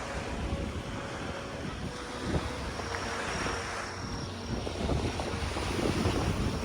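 Wind buffeting the microphone in uneven gusts over waves washing onto a beach.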